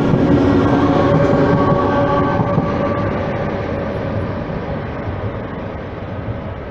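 Double-deck TGV high-speed train passing and pulling away, its rolling noise and steady hum fading as it recedes.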